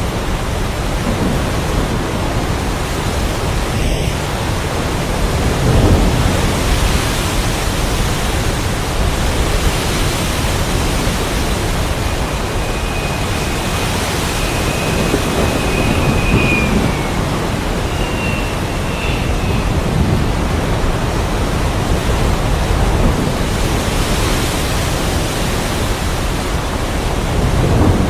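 Steady heavy rain with a few low rolls of thunder, the strongest about six seconds in.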